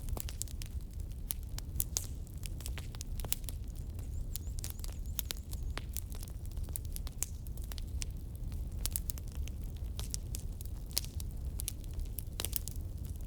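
Burning firewood crackling: many irregular sharp pops and snaps, several a second, over a low steady rumble.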